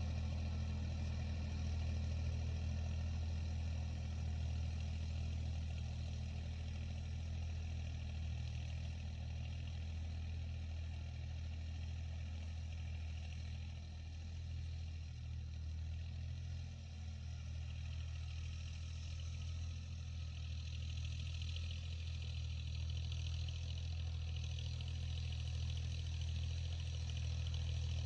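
Tractor engine running steadily with a low, even drone while ploughing a field. A higher hiss joins in about two-thirds of the way through.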